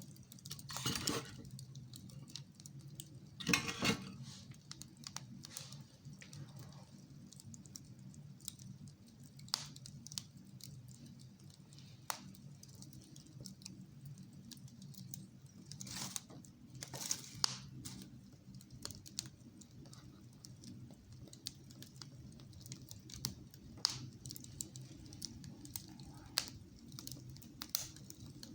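Wood fire burning in a fireplace, crackling and popping irregularly over a low steady rumble, with louder bursts of crackles about a second in, near four seconds, and again around sixteen to seventeen seconds.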